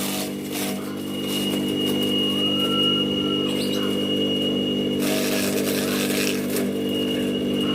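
Homemade grass chopper driven by a second-hand Sanyo water-pump electric motor, running with a steady hum. A short burst of rougher noise comes about five seconds in.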